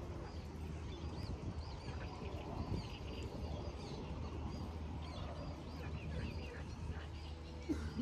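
Small birds chirping again and again over a low steady rumble.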